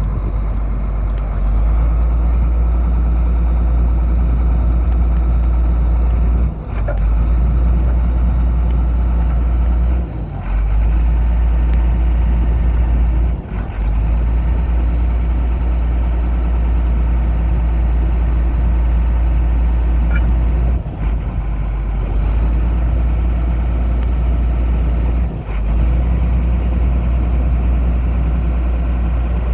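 A 2000 GMC C8500 tow truck's engine idling steadily with a heavy low rumble. The sound dips briefly about five times.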